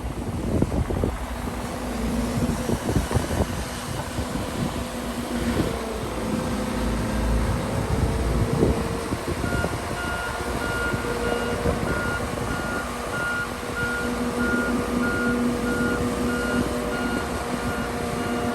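Heavy diesel earthmoving machinery, a crawler bulldozer with dump trucks, running with scattered metallic clanks. About halfway through, a backup alarm starts beeping steadily, just under two beeps a second: a machine is reversing.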